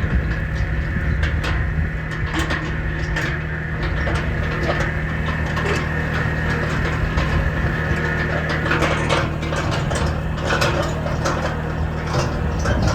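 A vintage tractor engine running at a steady idle, its low even hum mixed with irregular mechanical clicks and knocks.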